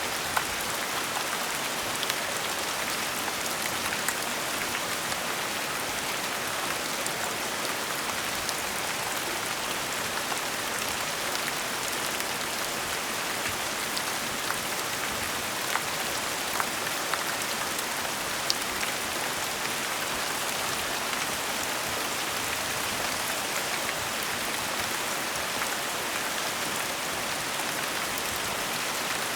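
Gentle rain falling steadily: an even hiss of rainfall with scattered individual drops ticking through it.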